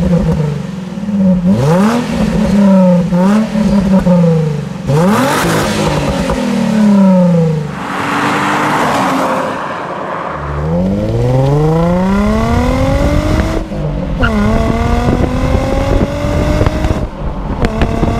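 Nissan 350Z's 3.5-litre V6 on its standard exhaust. It is blipped about eight times in quick rises and falls, then accelerates hard with the pitch climbing steadily, drops once at a gear change and climbs again.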